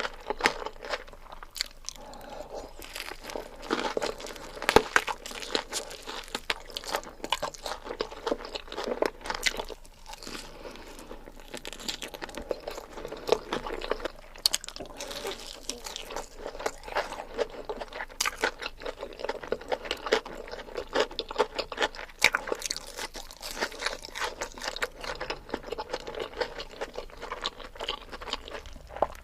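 Close-miked ASMR eating: a person chewing big mouthfuls, with a steady stream of crisp, wet mouth clicks and a brief lull about ten seconds in.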